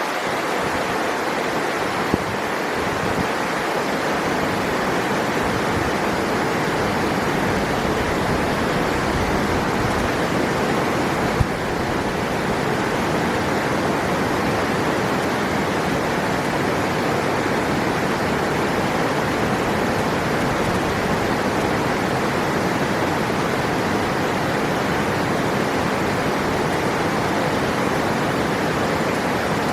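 River water rushing steadily, an even, unbroken noise, with two brief clicks about two seconds and eleven seconds in.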